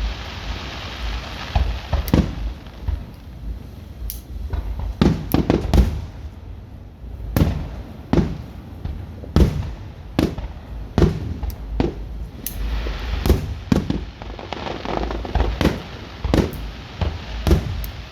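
Fireworks going off in quick, irregular succession: sharp cracks and booms, sometimes several a second, over a continuous low rumble.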